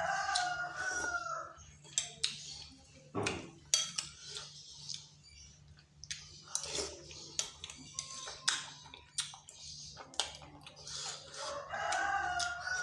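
Eating sounds from a bowl of bakso, with sharp clicks of a spoon against the bowl scattered throughout. A rooster crows in the background, once at the start and again near the end, each crow lasting about a second.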